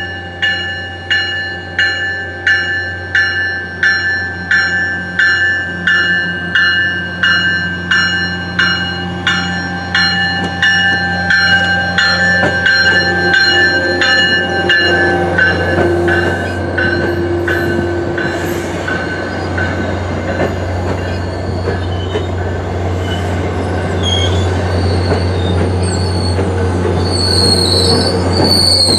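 Diesel commuter train pulling out: a bell strikes in a steady rhythm, slightly faster than once a second, and fades out about halfway through, while the low drone of the train grows louder. Wheels squeal high-pitched over the last few seconds.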